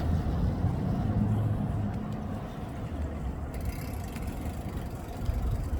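Steady low rumble of road traffic with a faint engine hum, heard outdoors in the city.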